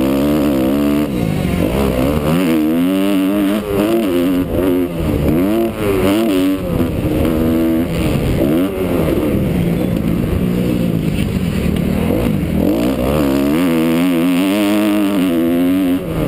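Kawasaki KX250F four-stroke single-cylinder motocross engine being ridden hard, its pitch climbing and dropping every second or two as the throttle opens and closes and the gears change.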